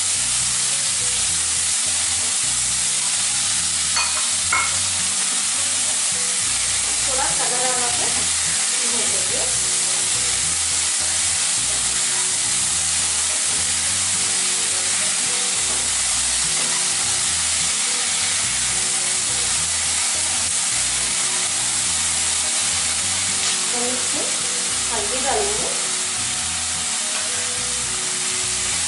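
Chopped onions, green chillies and curry leaves sizzling steadily as they fry in a kadai, stirred with a spatula, with a few clicks and scrapes of the spatula against the pan.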